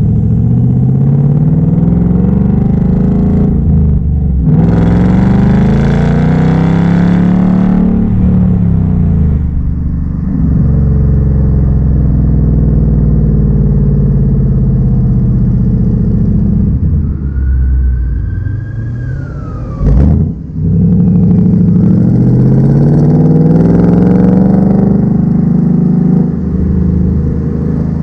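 2019 Ford Mustang GT's 5.0-litre V8 on its factory exhaust, pulling hard through the gears. The engine note rises, then drops back at each upshift, several times over. About two thirds of the way through, the engine briefly eases off and a single sharp click is heard.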